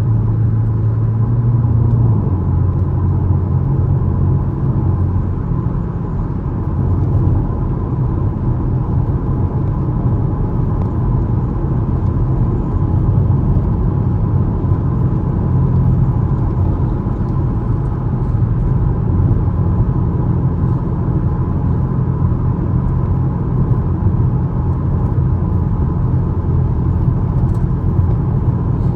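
2013 Chevrolet Camaro LS's 3.6-litre V6 running under way, with road noise; the engine note steps down in pitch about two seconds in, then holds fairly steady.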